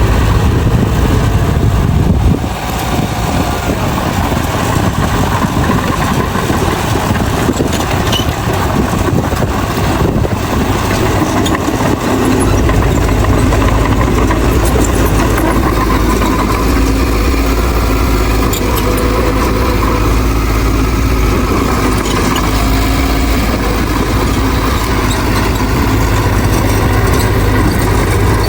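Heavy diesel engine of earthmoving machinery running continuously. The low rumble drops off a couple of seconds in and returns strongly about twelve seconds in, as the engine is loaded again.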